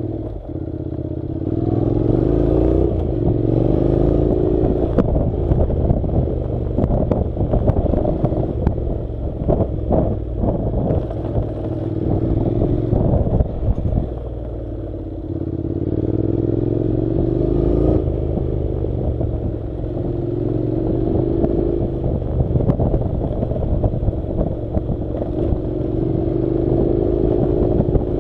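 Honda NC700 motorcycle's parallel-twin engine running under way, its pitch climbing and easing off again several times as the bike speeds up and slows. Frequent short clatters and knocks from riding over the rough dirt track.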